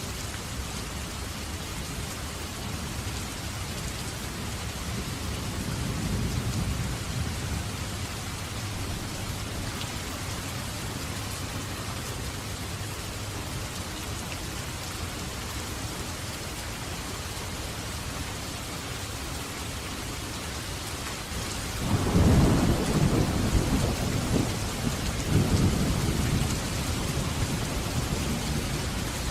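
Steady heavy rain falling, with a distant rumble of thunder swelling and fading early on, then a loud clap of thunder breaking about three-quarters of the way through and rolling on with a second swell to the end.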